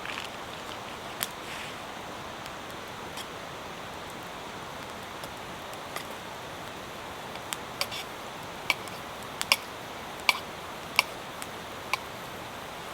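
Steady hiss of rain with scattered sharp pops from a wood campfire crackling, the pops coming more often in the second half.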